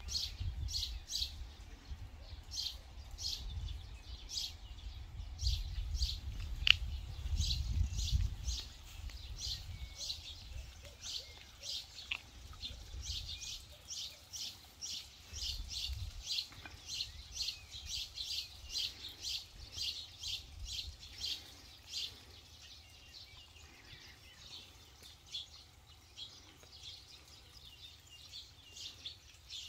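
A small bird chirping over and over, two or three short chirps a second, thinning out and fading over the last several seconds. A low rumble sits under the first eight seconds.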